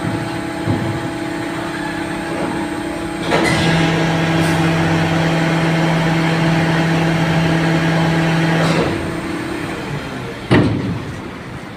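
Heavy vehicle engine running at a steady pitch; it gets louder for about five seconds in the middle without any rise or fall in pitch, then drops back. A single sharp knock comes near the end.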